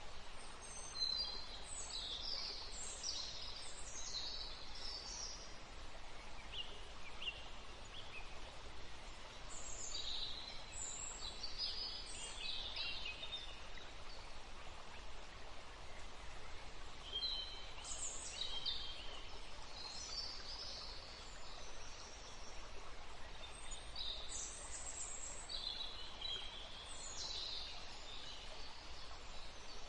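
Small birds singing in several clusters of quick, high chirps and trills, with pauses of a few seconds between them, over a steady background hiss.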